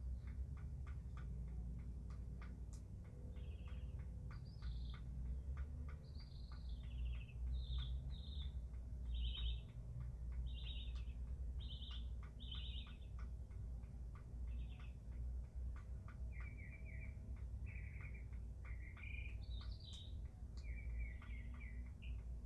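A bird calling over and over in short chirped notes, one or two a second, the later notes lower in pitch. Behind it runs a steady ticking of water drips from the storm, and a low, even rumble.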